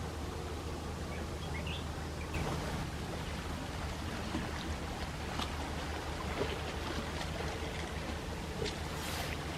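Small sea waves washing and lapping on the shore, with soft splashes here and there over a steady low hum.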